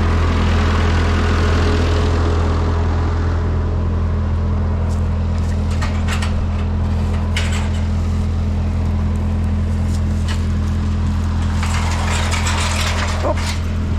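Ford 9N/2N tractor's four-cylinder flathead engine running steadily under way, with a few short metallic clatters partway through and near the end.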